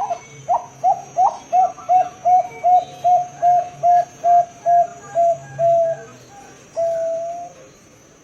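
Zebra dove (perkutut) cooing: a quick run of about fifteen short, even coos, then one longer drawn-out final note near the end.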